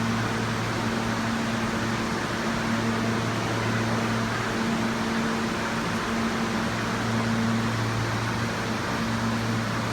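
Steady hum and hiss of an R160 subway train, with a constant low drone and no change in pitch.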